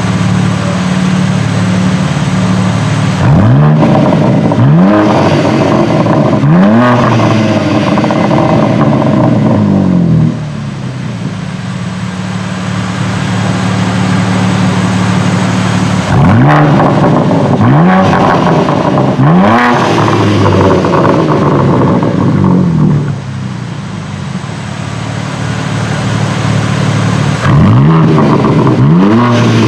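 BMW M4 G82 Competition's twin-turbo straight-six through an Akrapovic titanium slip-on exhaust, stationary: idling steadily, then revved in three sets of quick blips, three rising revs in each set, falling back to idle after each set.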